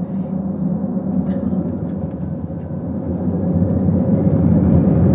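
Jet airliner engines during takeoff, a steady low rumble that grows louder about three and a half seconds in.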